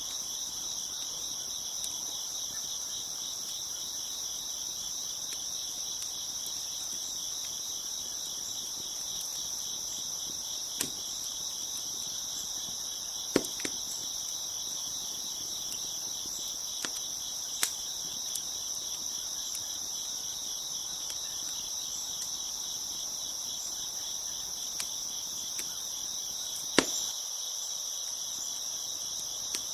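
Crickets chirping in a dense, steady chorus, with a handful of sharp, isolated pops from a crackling wood fire, the loudest about halfway through and near the end.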